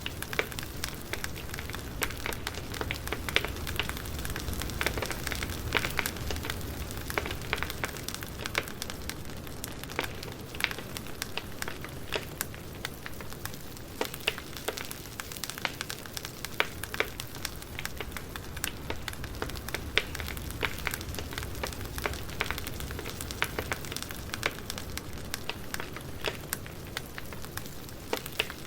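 Wood fire burning and crackling, with frequent irregular sharp pops over a steady hiss and low rumble.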